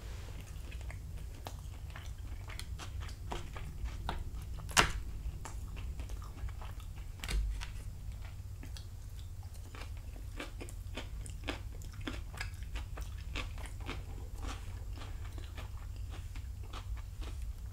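Close-up chewing of a chicken and vegetable dinner, with many small wet mouth clicks, and a wooden fork touching the plate now and then; a sharper click comes about five seconds in.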